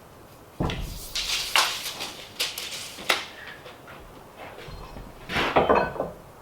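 Clattering wooden knocks and scrapes in two bursts: a run of knocks starting about half a second in and lasting a couple of seconds, then a shorter cluster near the end.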